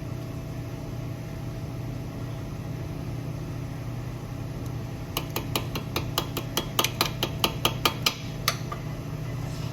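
A steady low hum, then, past the middle, a run of quick sharp clicks, about five a second for some three seconds, with one last click after a short gap.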